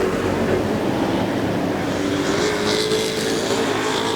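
Super Pro Truck racing trucks' engines running at speed on the oval, a steady multi-engine drone whose pitch shifts slightly about halfway through.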